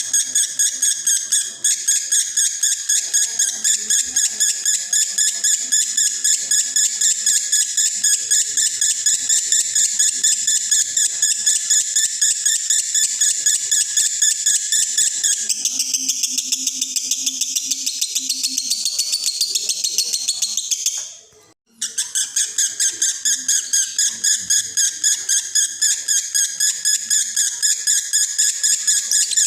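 Male lovebird in breeding condition singing a long, unbroken 'konslet' chatter: a rapid string of high, shrill chirps that changes pattern about halfway and stops for a moment about two-thirds of the way in before going on.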